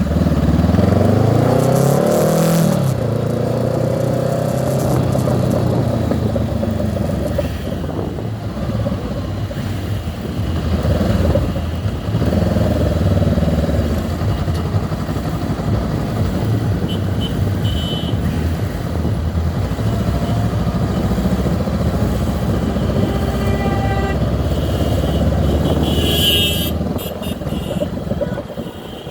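Honda CB 500X motorcycle engine running while riding, its pitch rising as it accelerates in the first couple of seconds and again about twelve seconds in, then holding steady.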